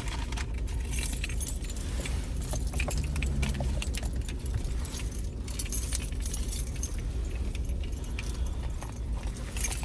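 Keys jangling with light rattling clicks over the steady low rumble of a vehicle.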